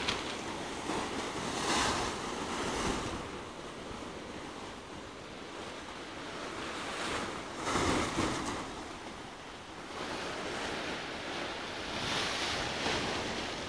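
Sea surf: waves breaking and washing in, swelling louder every few seconds, with wind on the microphone.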